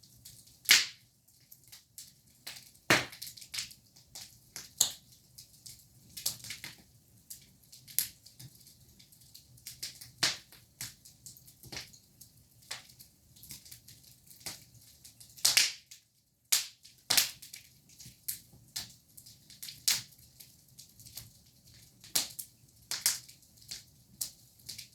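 Wood fire crackling, with irregular sharp pops and snaps, a few of them much louder than the rest.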